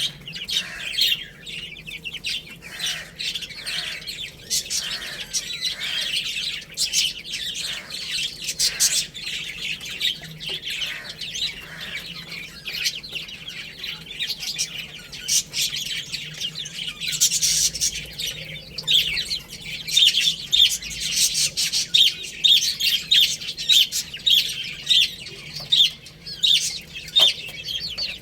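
Baby chicks peeping: many short, high-pitched chirps overlap throughout. In the second half they settle into a steady run of louder peeps, about two a second.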